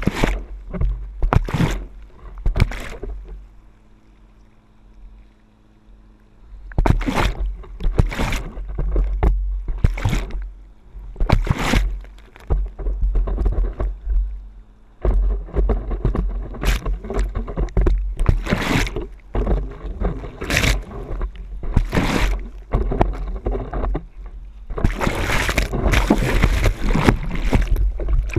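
Water splashing in repeated bursts, roughly a second apart with a pause a few seconds in, over heavy wind rumble on the microphone.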